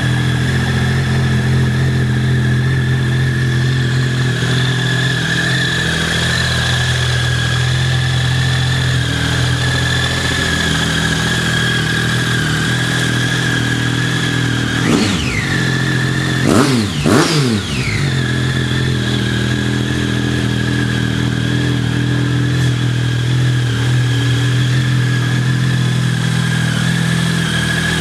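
Triumph Speed Triple 1050's inline three-cylinder engine idling steadily, with three quick throttle blips about halfway through that rise and fall back to idle.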